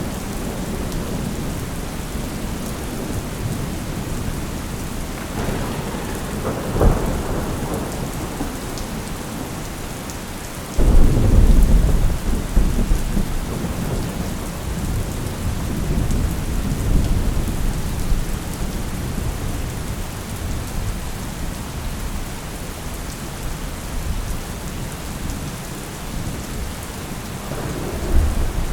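Thunderstorm: steady rain with a sharp crack of thunder about a quarter of the way in, then a loud low rumble of thunder that starts suddenly and rolls on for several seconds. More thunder builds near the end.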